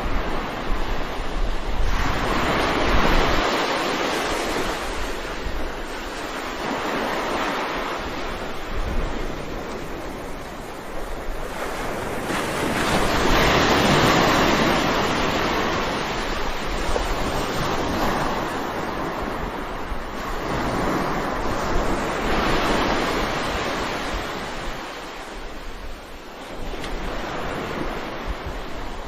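Ocean surf: waves breaking and washing ashore in a continuous rush that swells and ebbs every several seconds.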